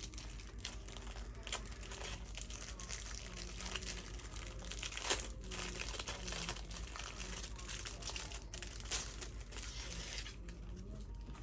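Packaging crinkling and rustling as it is handled and unwrapped, with irregular crackles throughout.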